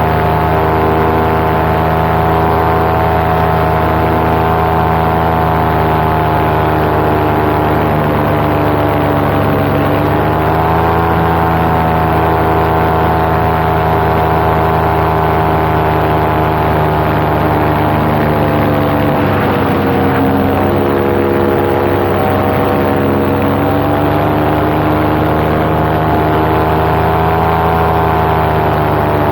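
Paramotor engine and propeller running steadily in flight. The engine note dips and climbs back twice, about ten seconds in and again about twenty seconds in, as the throttle is eased and reopened.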